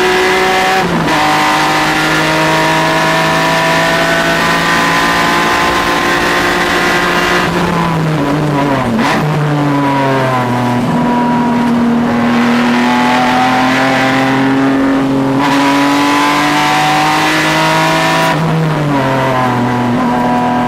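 Car engine driven hard around a race track at high revs. The pitch drops about a second in with a gear change, falls in several steps around eight to ten seconds in as it is downshifted under braking, then climbs slowly under acceleration before dropping again with another shift near the end.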